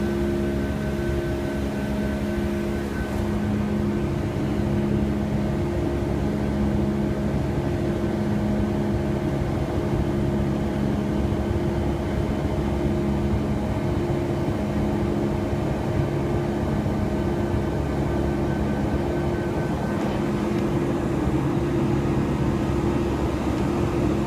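Steady cabin drone inside a Boeing 757 airliner with its engines running, a low rumble under several steady hums.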